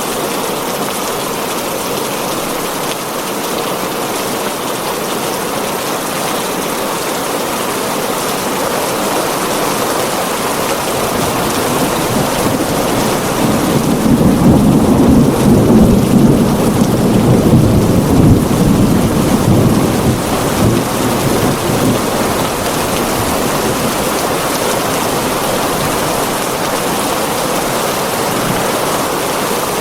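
Heavy rain on a tin roof, a steady hiss throughout. About thirteen seconds in, a long low rumble of thunder swells, stays loudest for several seconds, then fades out.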